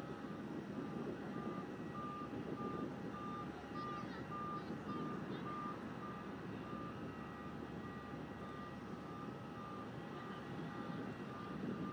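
A vehicle's reversing alarm beeping steadily, roughly one and a half beeps a second, over a steady low rumble of machinery.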